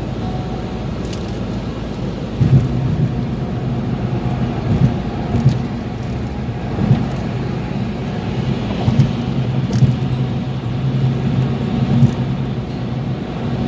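A car driving: a steady low engine and road hum, with short thumps every second or two.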